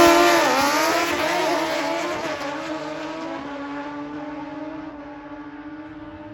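Drag bike engine at full throttle accelerating away down the strip. It is loudest at the start, with the pitch climbing and dipping briefly at a gear change, then fades steadily as the bike heads away.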